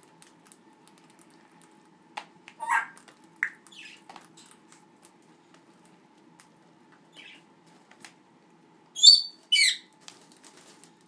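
Pet parrot calls: a few short squawks a few seconds in, then two loud, wavering whistle-like calls near the end, over scattered light clicks and taps.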